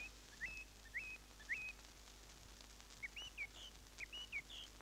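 Bird chirping faintly: short rising calls about twice a second, a pause, then a few more calls near the end.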